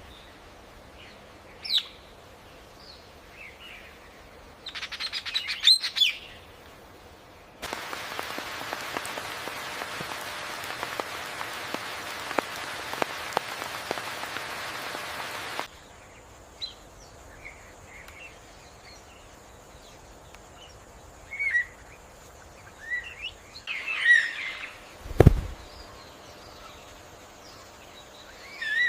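Birds calling with short, scattered chirps, in a quick flurry about five seconds in and again in the last third. In the middle stretch a steady hiss comes in suddenly and cuts off after about eight seconds, and a single low thump sounds near the end.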